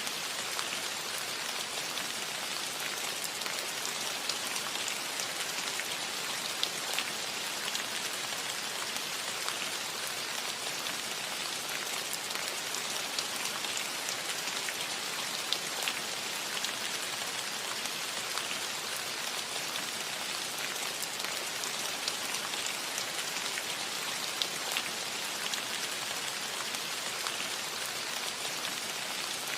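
Steady rain falling on a metal roof: a continuous even hiss sprinkled with many small drop ticks.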